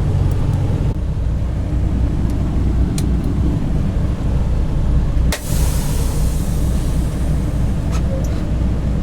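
Semi-truck diesel engine running with a steady low rumble. About five seconds in comes a sharp click followed by a hiss of air that fades over about a second and a half.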